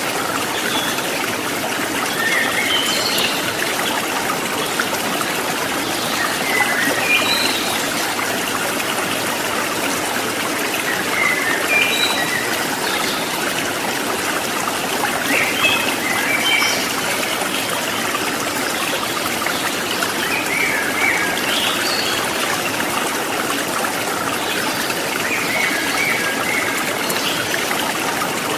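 Stream water babbling and trickling steadily over rocks.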